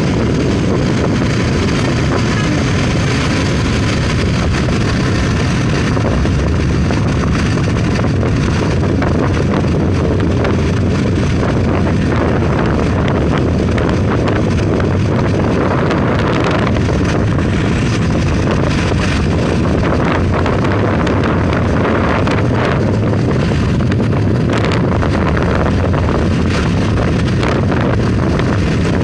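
Steady wind buffeting the microphone over the rumble of a vehicle moving along a road.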